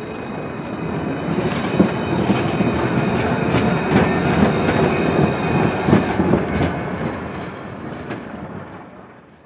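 A train passing slowly by, its rumble swelling to a peak in the middle and fading away near the end. Irregular clacks of the wheels over the rails are laid over it, with a faint thin high whine of wheel on rail.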